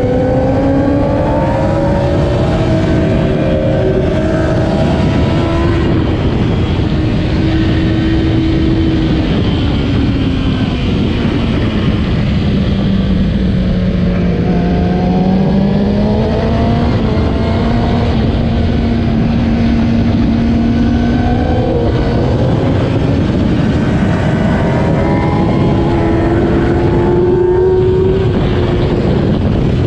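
2008 Kawasaki ZX-10R's inline-four engine racing on track, the revs climbing in steps and dropping away again as it is shifted, braked and accelerated, over a steady rushing noise.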